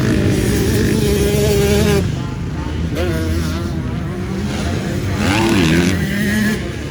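MX2 motocross bikes racing, engines revving up and down with the throttle, louder for the first two seconds and a little quieter after.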